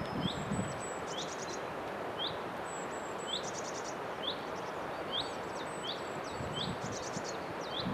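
Small birds chirping: short sharp calls about once a second with higher thin notes and brief trills, over a steady hiss of outdoor background noise.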